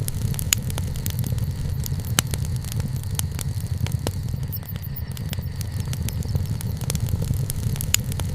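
Wood bonfire burning: irregular sharp crackles and pops from the burning wood about every second, over a steady low rumble.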